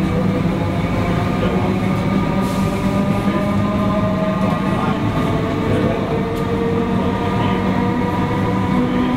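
Comeng electric suburban train heard from inside the carriage while running through a tunnel. A steady rumble of running noise carries a few level humming tones.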